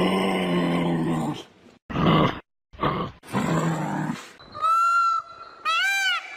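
Animal calls: a long low call at the start, then a few short rough calls, and near the end a run of high, arching calls repeated about every two-thirds of a second.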